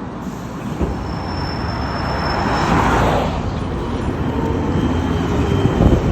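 KTM-31 tram running on its rails: a steady rumble and rattle with a thin, steady high-pitched whine over it, swelling about halfway, with a few knocks near the end.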